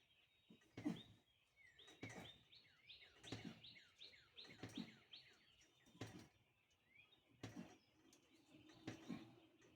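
Faint birdsong: a quick series of short, falling chirps through the middle, with soft low thumps in between.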